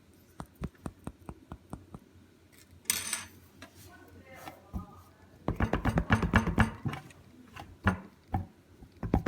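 A string of sharp clicks and taps, with a short rustle about three seconds in and a quick run of clicks a few seconds later.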